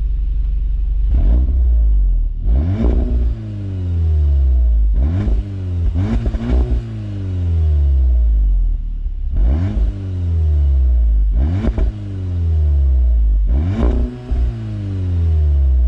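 SEAT Leon Cupra 280's turbocharged 2.0-litre four-cylinder, warm, being free-revved through its stock exhaust: about seven quick throttle blips, each rising sharply and falling back to idle, with some crackle as the revs drop.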